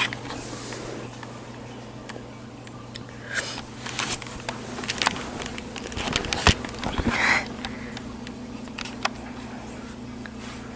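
Quiet small room: a steady low hum with scattered small clicks and rustles.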